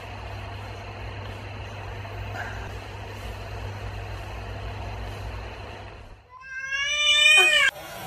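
Steady low hum and background noise, then about six seconds in a domestic cat gives one loud, drawn-out meow lasting over a second, its pitch dropping at the end.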